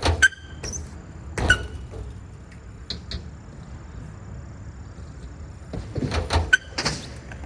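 BMX bike being ridden through tricks: tyres rolling, with sharp knocks and metallic clanks from tyre taps and landings, one near the start, one about a second and a half in, and a cluster near the end, some ringing briefly.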